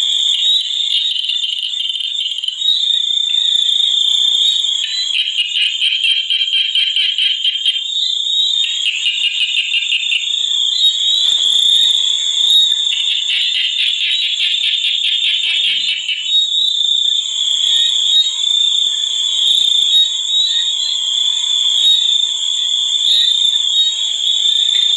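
Night chorus of insects and frogs: a steady, high-pitched insect drone, with stretches of fast pulsed trilling that come and go several times.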